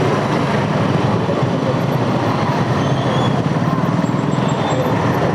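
Motorcycle engine running steadily with a fast, pulsing rumble, mixed with wind noise on the rider's microphone while riding in traffic.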